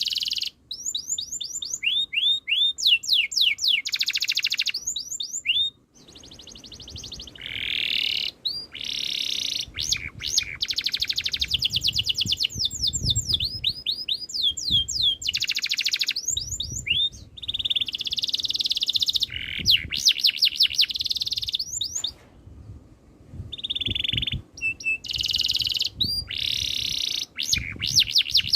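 Domestic canary singing a long, varied song: fast trills of rapidly repeated rising notes and rolled, buzzy phrases, broken by short pauses.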